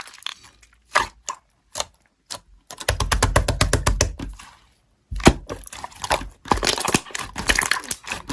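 Slime being squeezed and pressed by hand, giving quick sticky clicks and pops: a few scattered ones, then dense runs, with a short pause about two-thirds of the way through.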